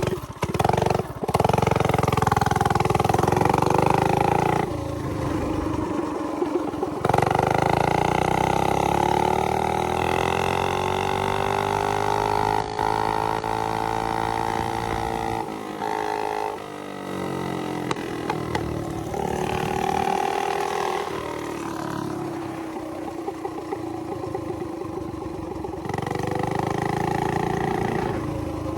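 Mini bike's small single-cylinder engine being ridden hard, revving up and back down several times as it pulls away and eases off, its pitch climbing over a few seconds and then falling.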